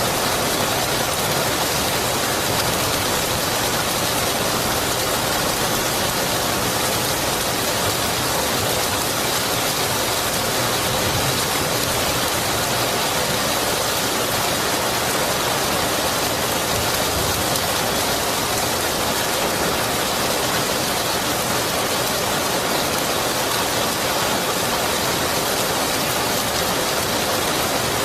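Rain falling steadily, an even hiss with no breaks or changes in level.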